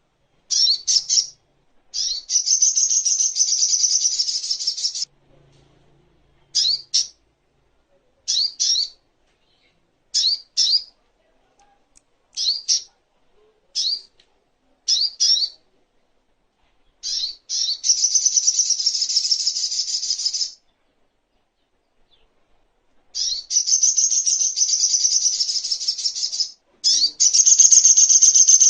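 Spiderhunter (sogok ontong) singing: short, sharp, high two- or three-note calls repeated every second or two, alternating with long, rapid, high trills lasting a few seconds each.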